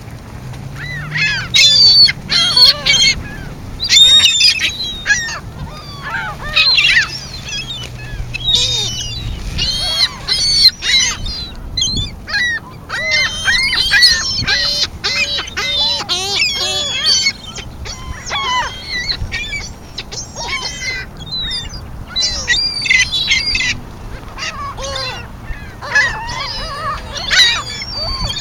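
A flock of birds calling loudly in dense, overlapping squawks and honks as they crowd in to be fed. A faint low hum runs under the calls for roughly the first third, then fades.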